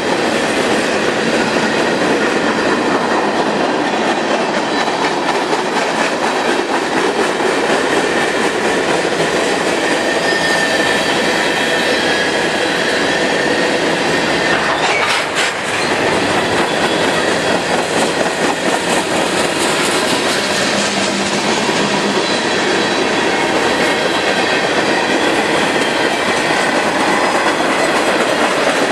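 A freight train's cars rolling past on the rails: a loud, steady noise of steel wheels on track, with a brief dip in level about halfway through.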